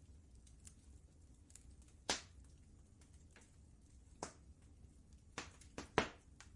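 Wood fire crackling: irregular sharp pops, the loudest about two seconds in and near the end, with a cluster of three pops close together in the last second or so, over a faint low rumble.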